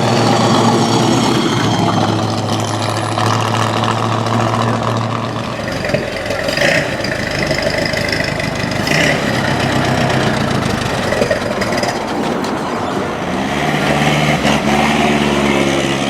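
Classic custom car engines running: a steady low idle for the first few seconds, then a car pulling away near the end with its engine pitch rising.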